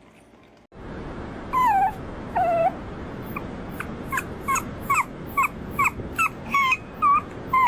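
A dog whimpering in short high-pitched whines that slide down in pitch, coming about twice a second from a few seconds in, over a steady hiss.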